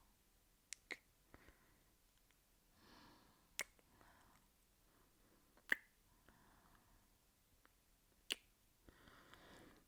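Soft kissing sounds close to the microphone: about five sharp, wet lip smacks a second or two apart, with faint breaths between them.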